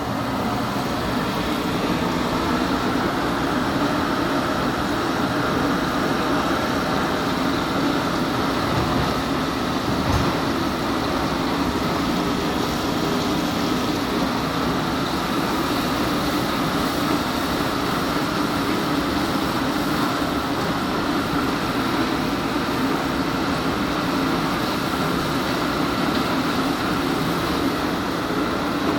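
Onions frying in hot cooking oil: a steady, unbroken sizzling with a low continuous rush beneath it.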